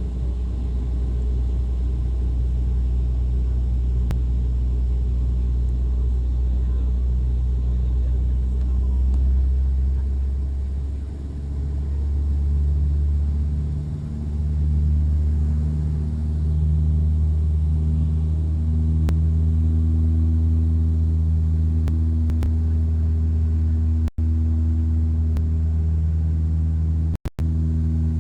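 Cabin drone of a de Havilland Dash 8-300's turboprop engines and propellers in flight: a loud, steady low hum made of several tones. Around the middle the tones dip and settle at a new pitch. Near the end the sound cuts out twice for an instant.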